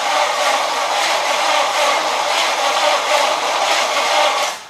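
Starter turning over the big-block Chevy V8 in a 1971 Chevelle SS, a steady churning that does not catch and stops abruptly near the end.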